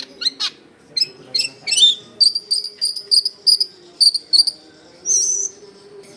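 Long-tailed shrike (cendet) singing: a few varied chirps, then a fast string of short, sharp high notes at about four a second, ending in a longer harsh note near the end.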